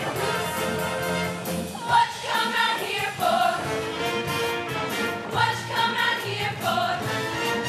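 Show choir dance number: voices singing over an instrumental backing with a steady bass line.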